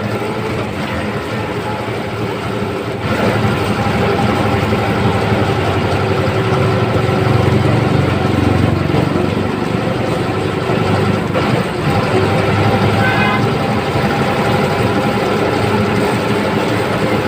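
Ashok Leyland bus's diesel engine running hard under load as the bus climbs a flyover, growing louder about three seconds in. A short high tone cuts in about two-thirds of the way through.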